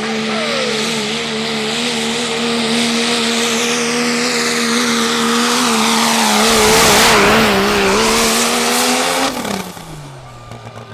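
Turbocharged diesel pickup truck pulling the sled at full throttle: the engine is held at steady high revs with a loud hiss over it, getting loudest about two-thirds of the way through. Near the end the throttle comes off and the engine note falls suddenly to a low idle, the end of the pull.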